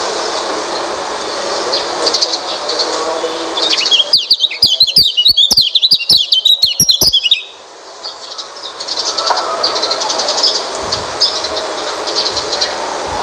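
White-eye (pleci) song played as a bird-keepers' lure recording: continuous high, rapid twittering over a steady background hiss. About four seconds in, a louder burst of fast chirps with sharp clicks lasts a few seconds, stops abruptly, and the softer twittering comes back.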